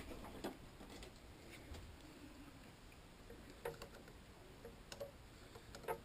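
A few faint, scattered clicks and light taps, with a stronger one about four seconds in and another near the end, over quiet shop room tone.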